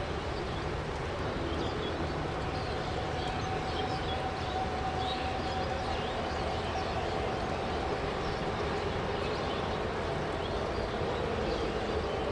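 Jet airliner engines running with a steady rumble and a held whine that drifts slightly in pitch. There is no rise or fall in loudness.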